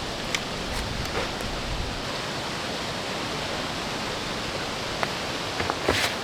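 Steady rain falling in a forest, an even hiss, with a few faint ticks and a cluster of light knocks near the end.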